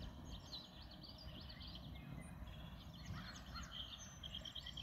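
Several songbirds chirping, with a quick run of repeated trilled notes in the last second or two, over a faint low rumble.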